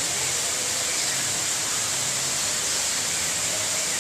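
Steady hiss of open-air show ambience, with a few faint whistles calling a trained bird in to land.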